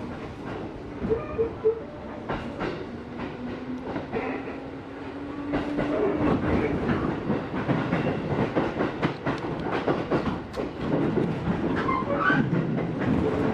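Electric train heard from inside the carriage as it pulls away and speeds up. A motor whine rises in pitch over the first few seconds, and the running noise grows louder, with wheels clicking over rail joints.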